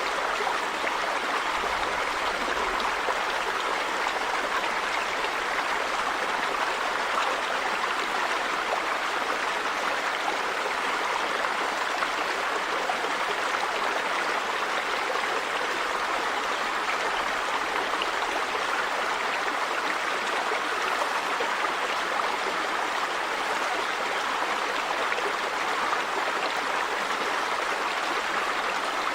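River water running over rocks: a steady, even rush.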